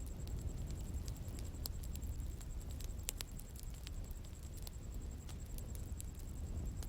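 Bonfire burning: irregular sharp pops and snaps of burning wood over a steady low rumble of the flames.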